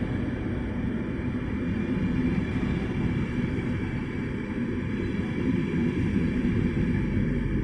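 Passenger train coaches passing close by at speed: a steady rumble of wheels running on the rails.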